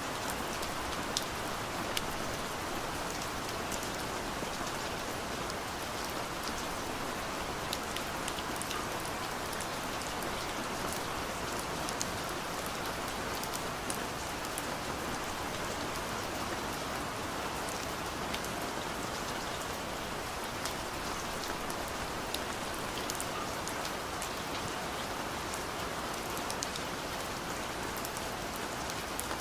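Steady rain falling on a car, heard from inside the cabin: an even hiss with many small, scattered drop ticks.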